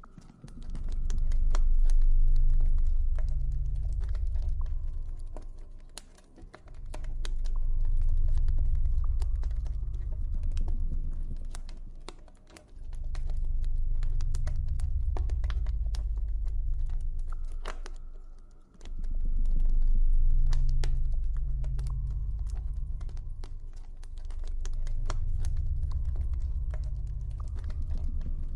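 Campfire crackling in irregular sharp pops and ticks over a deep ambient drone that swells and fades about every six seconds.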